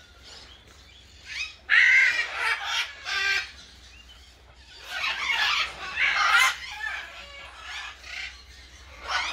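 Birds squawking and calling in loud bursts, about two seconds in and again from about five to six and a half seconds in, over a low steady hum.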